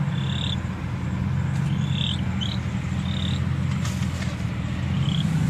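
Car engine idling with a steady low hum, while birds give several short, high chirps.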